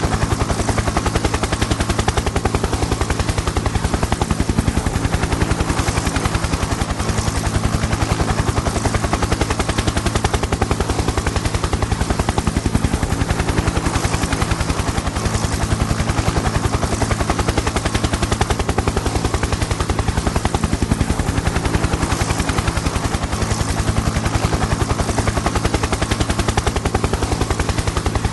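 Helicopter in flight: the rotor blades beat in a rapid, even chop over a steady low engine drone, with no change in speed or level.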